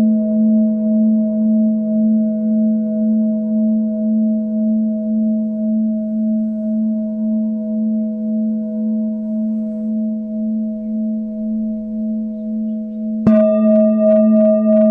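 Singing bowl ringing with a low fundamental and a few higher overtones, its sound slowly wavering in loudness as it sustains. The bowl is struck again about 13 seconds in, and a fresh, brighter ring starts.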